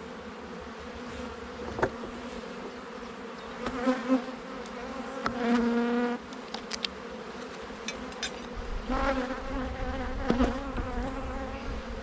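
Honeybees buzzing around an open hive: a steady hum, with louder buzzes as single bees fly close, notably around the middle and again later. A few light knocks of wooden hive parts being fitted back together.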